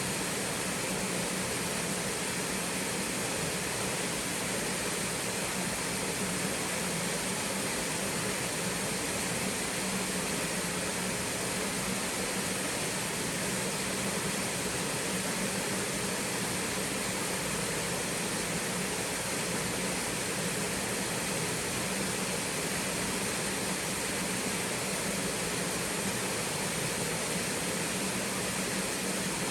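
Small twin waterfall on a mountain stream, water pouring and splashing in a steady, unbroken rush.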